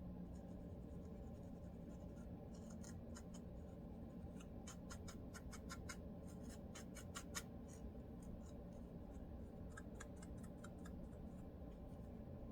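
Close-up scratching of a dry scalp flaking with dandruff: short, quick scratch strokes in three runs of several strokes each, over a faint steady low hum.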